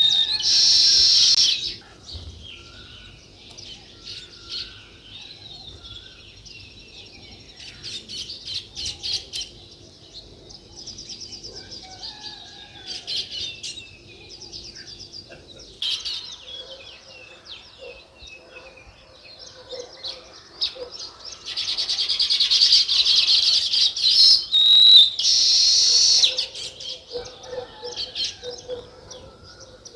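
Small birds chirping and chattering, many short high calls overlapping, swelling into dense loud chatter at the start and again about two-thirds of the way through.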